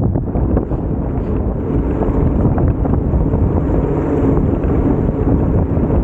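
Wind buffeting the microphone: a loud, steady low rumble without clear tones.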